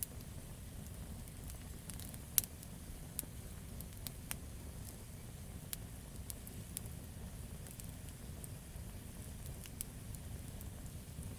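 Wood campfire crackling: a steady low rumble of the flames with scattered sharp pops and snaps from the burning logs, the loudest pop about two and a half seconds in.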